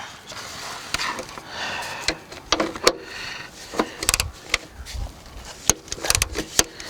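Irregular clicks and light knocks of a wrench and socket being handled and fitted onto a 14 mm seat-belt anchor bolt, with brief rubbing noises between them.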